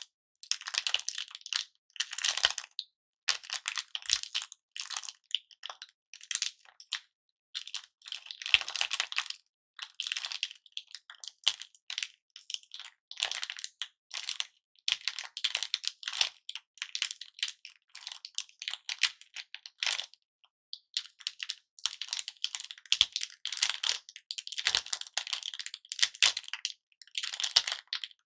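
Cellophane lollipop wrappers being crinkled and handled by hand in short crackly bursts, one after another, with a few sharp little clicks in between.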